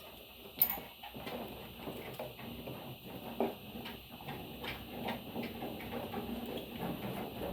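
Budgerigars making scattered small clicks and scratching sounds, with one sharp click just over half a second in.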